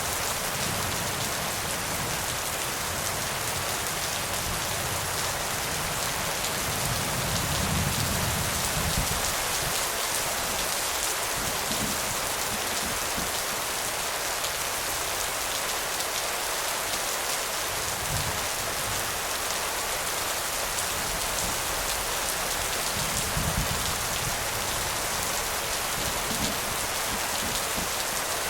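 Steady heavy rain falling, a dense even hiss of drops, with a low rumble swelling up about a quarter of the way in and again near the end.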